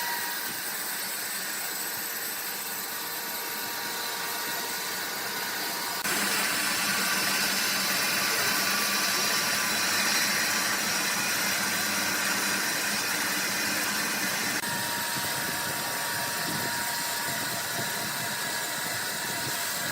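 Steady running noise of sawmill machinery, changing abruptly twice: about six seconds in it turns louder and hissier, and near fifteen seconds it shifts again.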